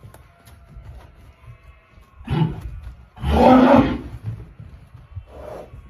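A horse giving loud, rough grunts: two close together around the middle, the second longer, and a shorter one near the end.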